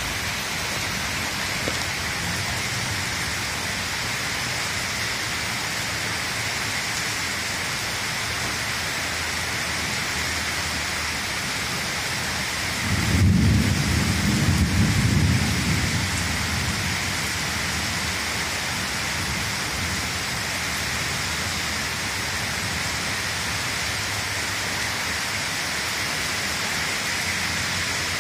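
Steady rain falling, with a low rumble of thunder about halfway through that swells and fades over about three seconds.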